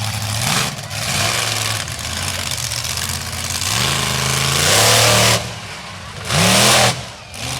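Monster truck engine revving hard in repeated surges, its pitch climbing and dropping between bursts, with the two longest, loudest pulls in the second half.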